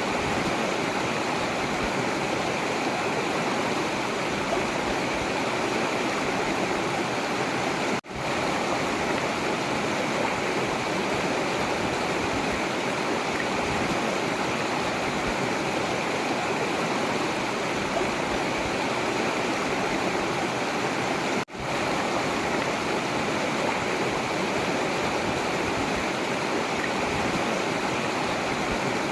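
Forest river water flowing and rushing steadily, with the sound cutting out for an instant twice.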